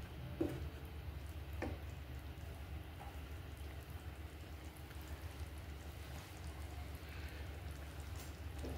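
Chicken fry in semi-gravy simmering faintly in a pan over a steady low hum, with two light clicks, about half a second and a second and a half in.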